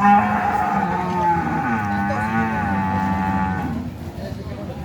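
Cow mooing: one long, loud bellow lasting nearly four seconds, its pitch wavering up and down in the middle before it stops.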